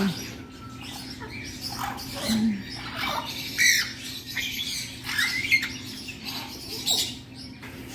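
Pet parrots giving short squawks and chirps, scattered irregularly, over a steady low hum.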